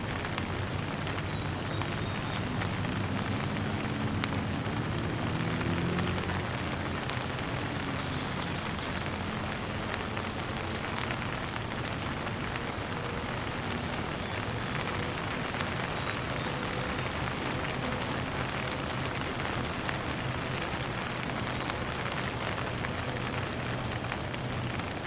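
Steady rain falling on surfaces: a dense, even patter with individual drops ticking through it. A low hum swells and fades during the first several seconds.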